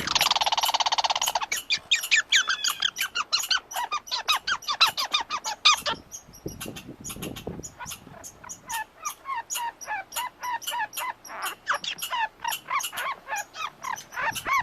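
A flock of birds calling: a longer call at the start, then a dense run of short calls, several a second.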